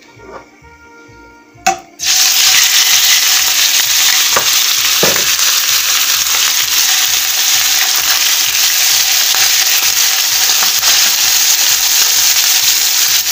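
Diced chicken breast hitting hot corn oil in a stainless steel pan. A short clink comes first, then about two seconds in a loud, steady frying sizzle starts abruptly and holds, with the pieces being stirred near the end.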